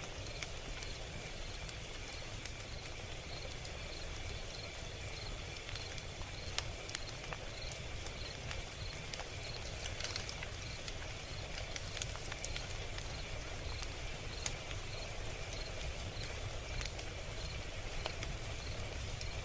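Log fire crackling: scattered, irregular sharp pops and snaps over a steady low rumble. A regular high-pitched pulsing runs underneath, about two pulses a second.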